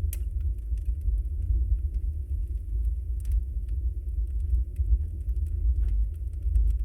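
Wood fire burning in a fireplace: a steady low rumble of the flames with scattered sharp crackles and pops, one louder pop right at the start and a few more about three seconds in.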